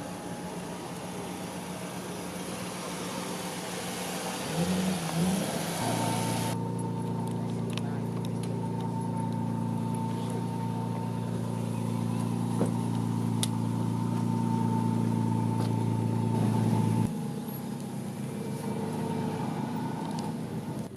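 A car engine idling, with a couple of quick blips of the throttle about five seconds in, then a steady, even idle that stops abruptly near the end.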